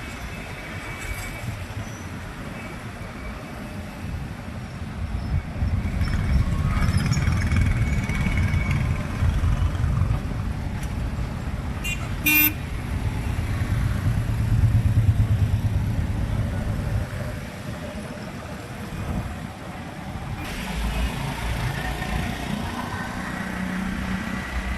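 Road traffic heard from a moving motorbike: a low, uneven engine-and-road rumble with other vehicles around. One short horn toot sounds about halfway through.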